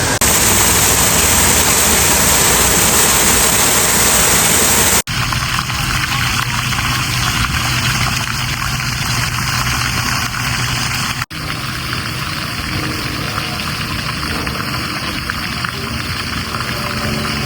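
Steady rushing of water from a garden fountain or cascade, with the sound jumping abruptly twice as the footage cuts between shots.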